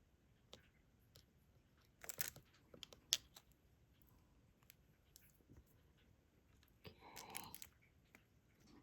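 Diamond painting pen picking up small plastic resin drills from a tray and pressing them onto the sticky canvas: faint scattered clicks and short crunchy rattles, with the biggest clusters about two and three seconds in and again around seven seconds.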